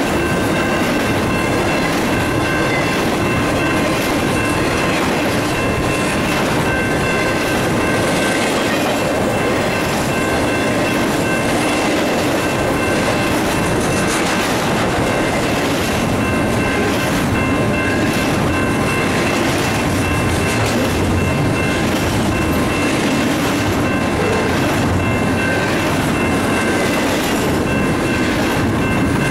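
Double-stack intermodal freight train rolling past at close range: the steady rumble and clatter of the well cars' wheels on the rails, with a few steady high ringing tones over it.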